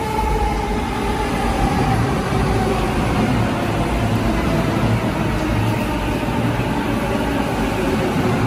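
JR East E233 series electric train running along the platform: a steady rumble of wheels on rails, with the traction motors' whine falling slightly in pitch over the first few seconds.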